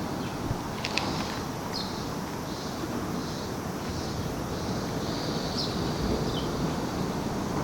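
Outdoor ambience: wind rumbling on the microphone, with a few short, high bird chirps and a faint click about a second in.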